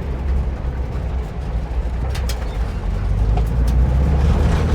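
1950s VW split-window Bus being driven over rough dirt track: a steady low engine and road rumble that grows louder about three seconds in, with a few short knocks and rattles from the body.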